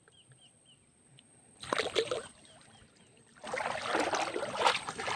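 Water splashing and sloshing as a fishing net is worked and lifted through shallow river water: a short splash about one and a half seconds in, then continuous splashing and dripping from about three and a half seconds on.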